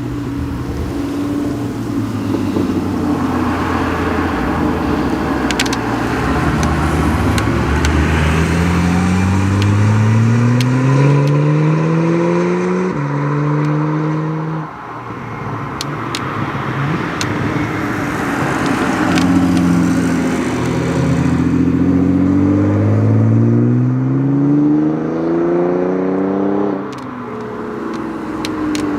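High-performance car engines accelerating hard past the listener. The engine note climbs, shifts up a gear and drops away about halfway through, then a second climb rises and falls off near the end.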